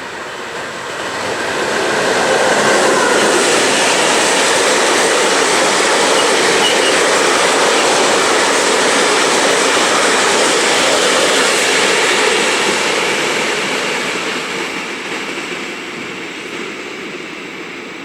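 Cement freight train passing through at about 120 km/h: a wide rush of wheels on rail that builds over the first couple of seconds, holds loud for about ten seconds, then fades away toward the end.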